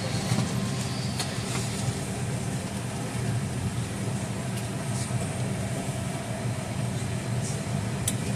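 Steady low hum of a Boeing 757's cabin air and ventilation system before departure, with a few faint clicks.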